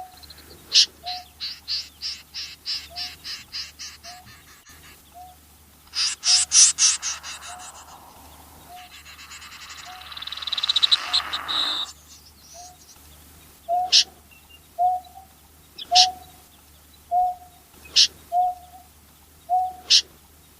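Snipe calls: a short low note repeated about once a second throughout, mixed with sharp high calls. There is a fast run of notes in the first few seconds, a loud harsh series about six seconds in, and a rasping stretch around ten to twelve seconds in.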